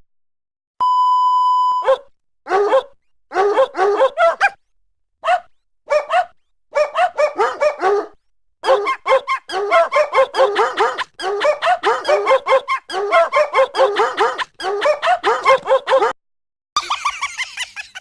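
A one-second electronic beep, then a dog barking in quick runs of short, falling yelps with pauses between runs, and a higher squeaky sound near the end.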